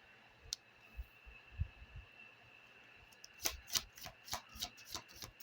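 A deck of oracle cards being handled and shuffled: a few soft taps early, then a run of sharp card clicks, about three a second, through the second half.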